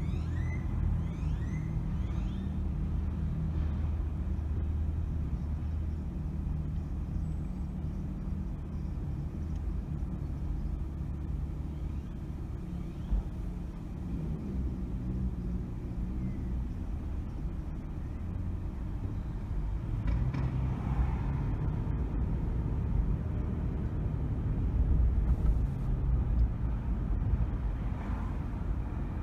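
Car driving through city streets: a steady low engine and road rumble, swelling a little near the end.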